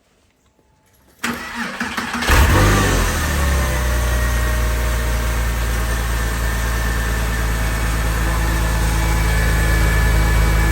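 Porsche 996 flat-six engine cranked by the starter about a second in, catching a second later with a brief flare of revs, then settling into a steady idle.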